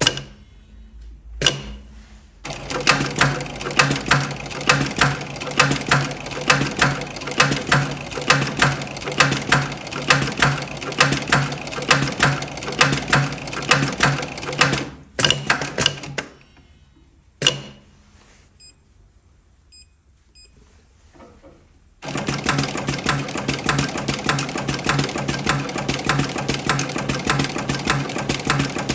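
Electronic double-needle post-bed pattern sewing machine stitching at a fast, even rate. It stops with a sharp click about halfway through, falls quiet for a few seconds, then starts stitching again.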